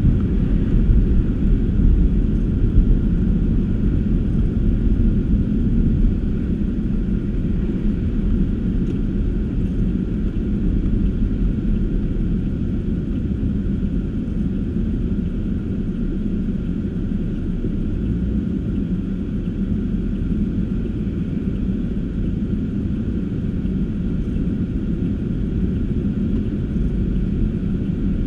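A car being driven, heard from the car itself: a steady low rumble of engine and road noise.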